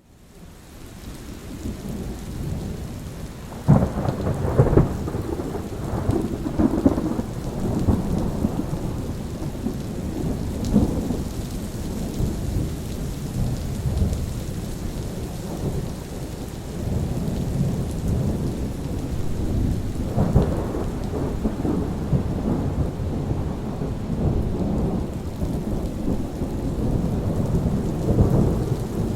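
Thunderstorm: steady rain hiss under rolling thunder, fading in at the start, with a sharp thunderclap about four seconds in and another swell of thunder around twenty seconds.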